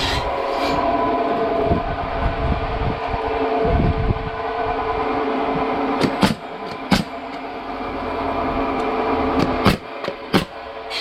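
Sawmill machinery running steadily with a humming drone that eases after about six seconds, then four sharp knocks in the second half.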